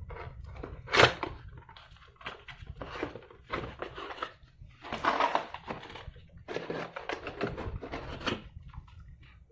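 Packaging being handled while a model airliner is unboxed: irregular rustling and crinkling, with a sharp knock about a second in.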